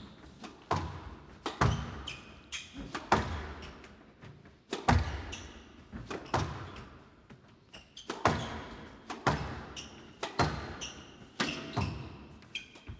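Squash rally: the ball cracking off the rackets and thudding against the court walls, about one strike a second, each hit echoing in a large hall.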